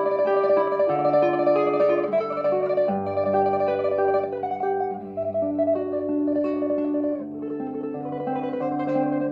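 Solo classical guitar playing a fast tremolo melody over a changing bass line. It gets a little softer about seven seconds in.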